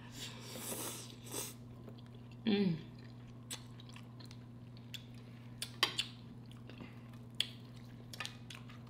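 Close-miked chewing and biting of food, with small scattered crunches and clicks of mouth sounds over a steady low hum. A brief voiced sound, falling in pitch, comes about two and a half seconds in.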